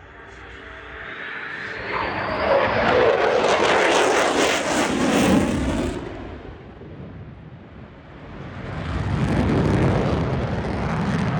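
F-22 Raptor fighter jet flying past. Its jet noise fades in with a rising whine and grows loud, eases off about halfway through, then swells loud again near the end.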